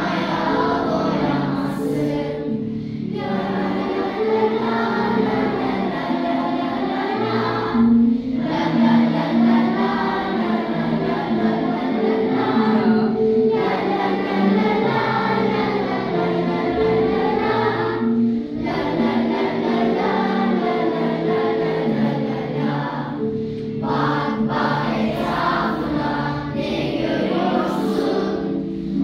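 A class of primary-school children singing a song together in chorus, over held instrumental notes. The song goes in phrases about five seconds long, with a short breath between each.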